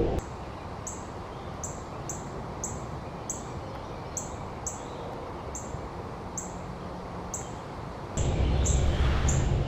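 A small bird giving a short, very high, thin call over and over, about two to three times a second at a steady pace. Underneath is a low wind rumble that drops away just after the start and comes back louder about eight seconds in.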